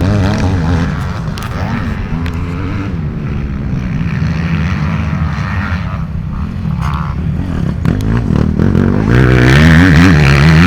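Motocross bike engines running and revving, their pitch rising and falling as the throttle is worked, getting louder near the end.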